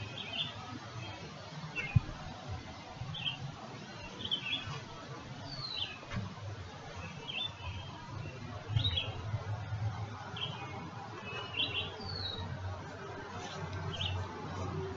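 A songbird chirping over and over, short high calls about once a second, some of them sliding down in pitch, over a low rumble. A single sharp knock about two seconds in.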